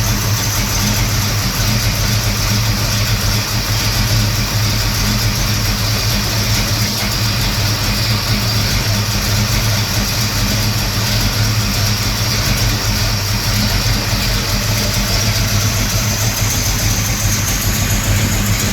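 Classic car's engine idling steadily.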